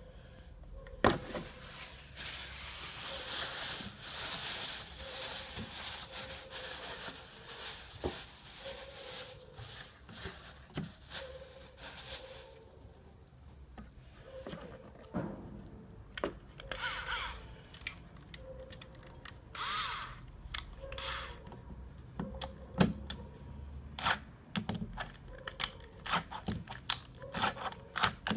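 Hand and power tool work on a car: a steady noisy stretch for about ten seconds, then a run of sharp clicks and short bursts, like a power driver and tools on fasteners.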